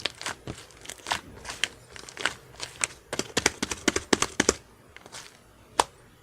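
Slime being pressed and stretched by hand, giving a run of sharp crackling clicks and air-bubble pops, busiest about three to four and a half seconds in, with one loud pop near the end.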